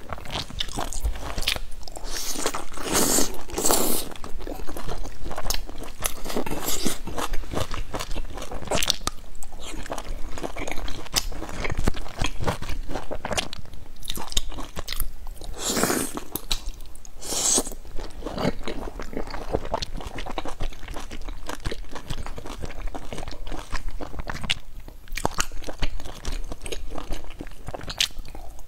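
Close-miked eating sounds of a person biting into and chewing large dumplings dipped in sauce: continuous chewing with many small clicks, and a few louder, longer bursts near the start and twice around the middle.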